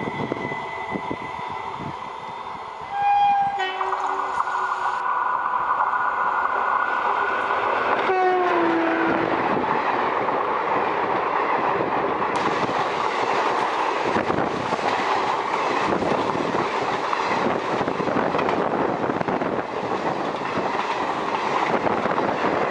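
Horn of a WCAM-1 electric locomotive hauling a passenger train, blown about three seconds in and again about eight seconds in, the second blast sliding down in pitch as the locomotive passes. It is followed by the steady rush and clickety-clack of its coaches running past close by.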